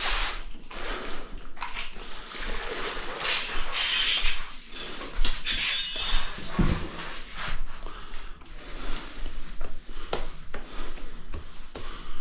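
Damp sponge being scrubbed and wiped across freshly grouted tiles: several rough rubbing strokes, with a few light knocks in between.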